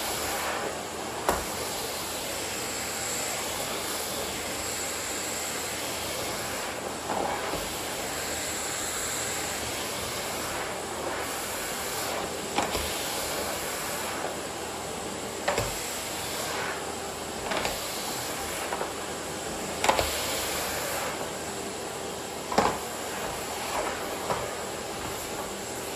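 Miele vacuum cleaner running steadily with a high whine, with a handful of sharp knocks as the nozzle is moved about.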